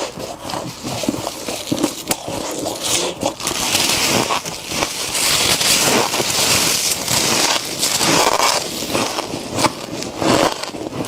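Frost crunching and scraping with dense crackles, louder and hissier from about three seconds in until near nine seconds.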